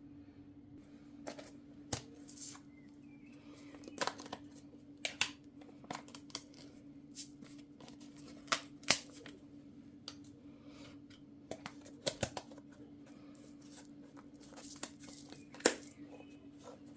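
Kitchen handling sounds: irregular sharp taps and clicks with brief rustling or tearing of paper, over a steady low hum.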